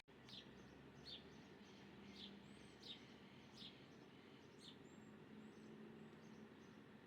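Faint birds chirping: short downward chirps repeated about once a second, with a few thin, higher whistles in between, over faint steady background noise.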